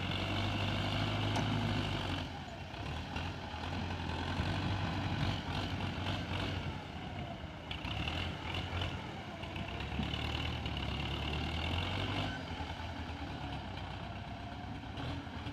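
Tractor diesel engine running, its low note swelling and easing off several times.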